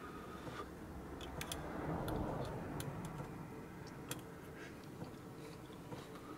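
Someone eating a hot piece of slow-cooked carrot: faint scattered clicks and mouth sounds of chewing over a low steady background noise.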